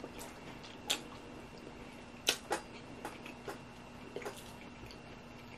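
Closed-mouth chewing of rotisserie chicken: a scatter of short, sharp wet mouth clicks and smacks, the two strongest close together about two and a half seconds in, over a faint steady hum.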